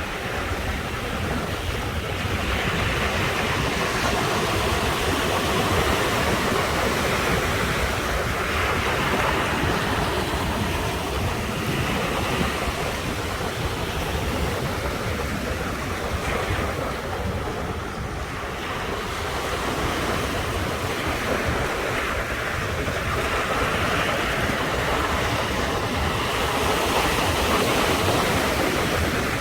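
Ocean waves breaking on the shore: a continuous surf wash that swells and eases with each wave, with wind rumbling on the microphone underneath.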